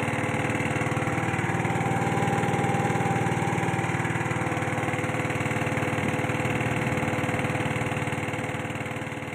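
Small engine running steadily at an even speed, slowly fading near the end.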